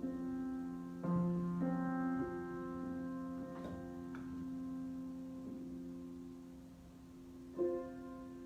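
Solo piano improvisation: slow, sustained chords left to ring and fade, with new chords struck about a second in, twice more shortly after, and again near the end.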